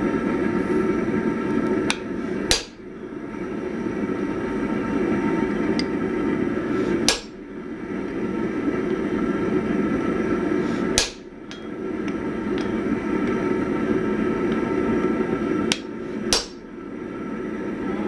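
Hammer blows driving a punch into hot 1045 steel to punch an axe eye. There are four heavy strikes spaced several seconds apart, two of them preceded by a lighter tap, over a steady roar.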